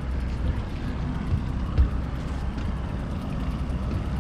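Steady low rumble of a fishing boat under way at trolling speed, with one low thump nearly two seconds in.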